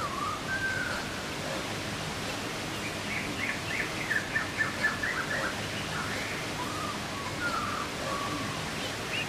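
Woodland birds chirping and singing over a steady background hiss, with a quick run of chirps about three to five seconds in.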